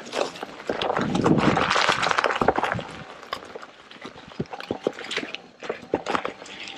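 Electric unicycle ridden over a muddy, rough trail: the tyre splashing and squelching through mud, with scattered knocks and rattles. A louder rushing stretch comes about a second in.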